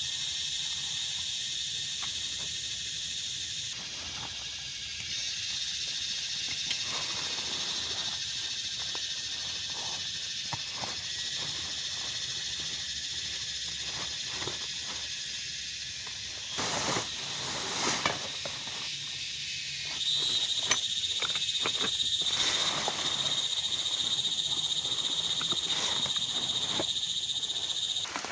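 Outdoor ambience: a steady high hiss with a constant high chirring, like insects or frogs calling, over scattered light ticks and taps. A few louder knocks come about two-thirds of the way in.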